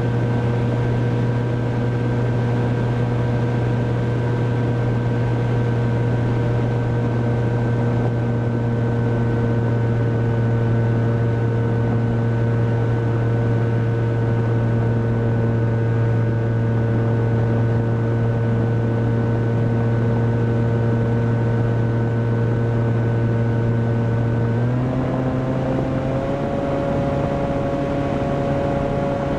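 Electric motor and propeller of a Volantex Ranger EX RC plane, heard from on board, running at a steady pitch over a rush of air. About 25 seconds in the pitch steps up, and rises a little again a second later.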